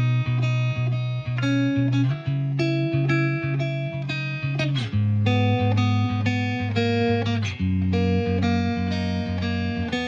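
Instrumental background music: a melody of plucked guitar-like notes, about two a second, over a low held bass line.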